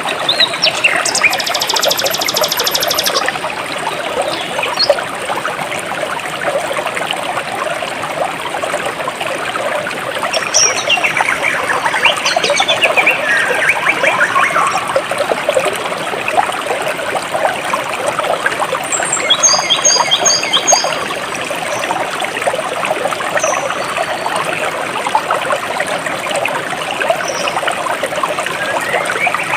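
Stream water trickling and flowing steadily, with birds chirping over it: a high buzzy trill near the start and a quick run of short repeated high notes about two-thirds of the way through.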